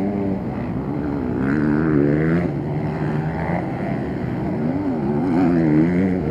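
Motocross motorcycle engines revving, their pitch rising and falling again and again as the throttle is worked, with a quick up-and-down wavering near the end.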